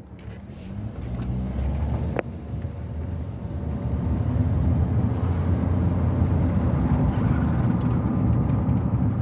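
Car driving, its engine and road noise growing louder over the first few seconds as it picks up speed, then steady. One short click about two seconds in.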